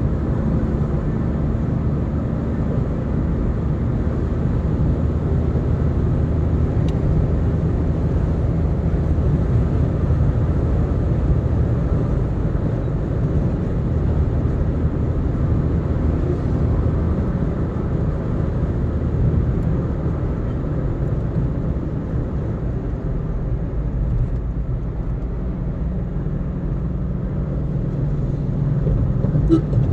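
Steady low rumble of a car cruising on an expressway: engine hum and tyre and road noise.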